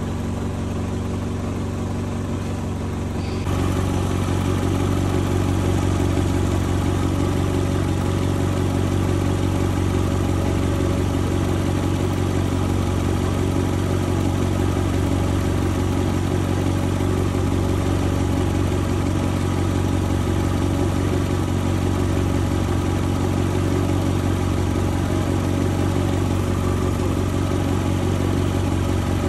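Subaru car engine idling steadily, heard close up under the open hood; it gets louder a few seconds in.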